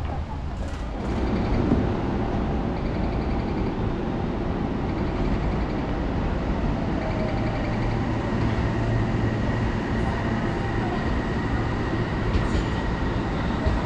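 Keio Sagamihara Line electric train running, heard from inside the car: a steady rumble of wheels and running gear that grows louder about a second in and then holds.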